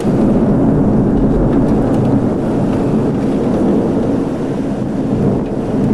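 Thunder rumbling low and steady after a strike, starting suddenly and holding for several seconds.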